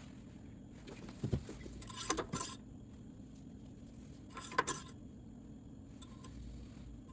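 Light metallic clinks and rattles from handling the engine's dipstick while checking the oil level. There is a cluster of clatters about a second in and a shorter one at about four and a half seconds.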